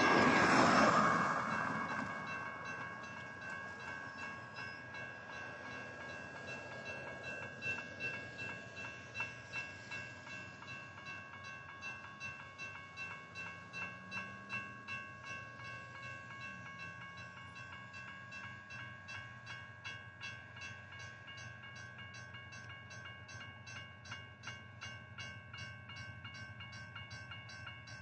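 Doublestack intermodal freight train passing a grade crossing. The loud locomotive noise fades over the first two seconds, then the wheels of the rail cars clack irregularly over the crossing. A steady, ringing crossing signal goes on throughout.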